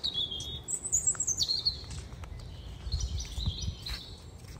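Songbird chirping and whistling outdoors. Short high chirps come at the start, a whistled phrase slides down in pitch about a second in, and fainter chirps follow near three seconds, over a low rumble.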